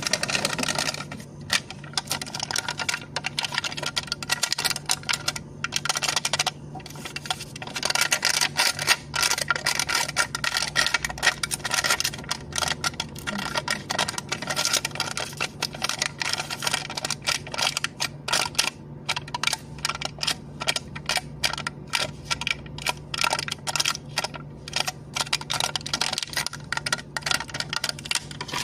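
Plastic cup lid tapped and clicked in a fast, continuous patter of small crisp clicks, with brief pauses now and then.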